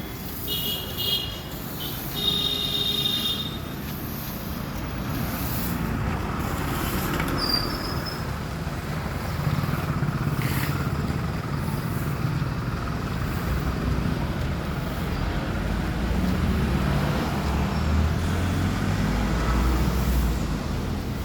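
Diesel engine of a truck carrying a sewer jetting and suction unit, running with a steady low drone that strengthens near the end. A couple of short high-pitched tones sound in the first few seconds.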